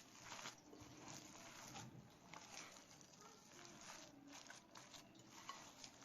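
Faint, irregular soft clicks and rustles, like light handling noise, over a quiet background.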